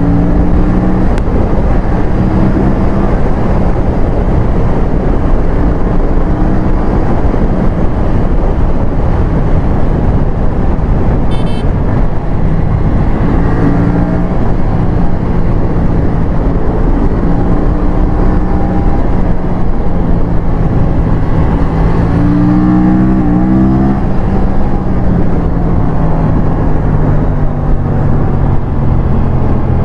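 Aprilia RS457's parallel-twin engine under way, heard from on the bike, holding steady revs for stretches and then changing pitch. A quick run of rises and drops a little past two-thirds of the way in sounds like gear changes.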